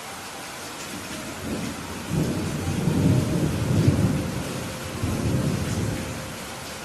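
Steady rain with a roll of thunder that swells about a second and a half in, peaks in the middle, comes back in a second surge and fades out near the end.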